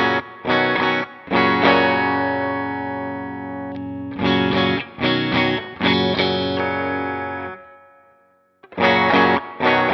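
Electric guitar played through the Flamma FS06 preamp's T-Rock clean channel, a Dumble-style amp model. A couple of short strummed chords, one chord left ringing for about two seconds, then a run of short chord stabs that fade out, a brief gap, and more short chords near the end.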